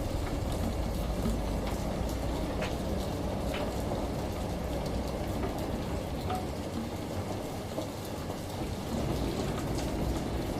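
Steady rain with scattered sharp drip ticks over a continuous low rumble.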